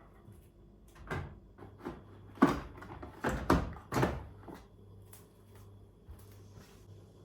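Household objects being handled during cleaning: a run of about six knocks and clunks, the loudest about two and a half seconds in, over a faint steady hum.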